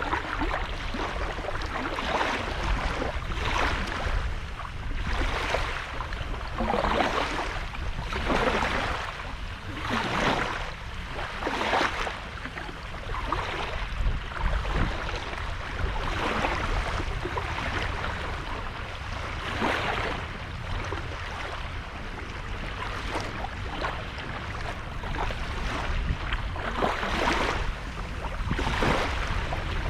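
Small sea waves washing up and breaking on a sandy beach, a fresh swash of surf every second or two over a steady low rumble.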